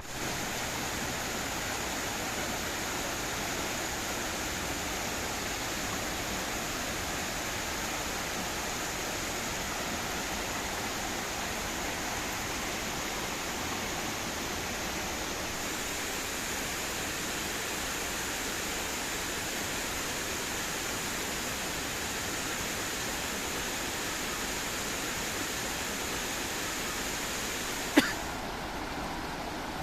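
Steady rushing of river water, an even hiss without pauses. One sharp click about two seconds before the end.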